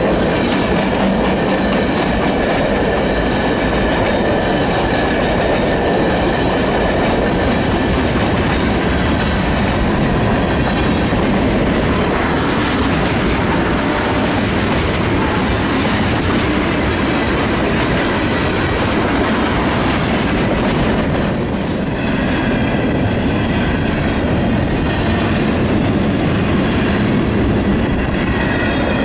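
A train rolling past close by, its wheels clattering steadily over the rail joints. Faint high-pitched tones sound near the start and again over the last several seconds.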